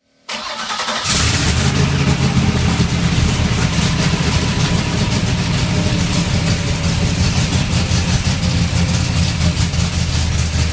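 Loud V8 race engine running steadily with a fast, rough pulsing. It comes in softly and jumps up sharply about a second in.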